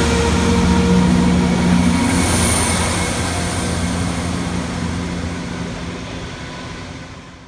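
Diesel passenger train running past, engine and wheel noise steady at first and then fading away as it moves off.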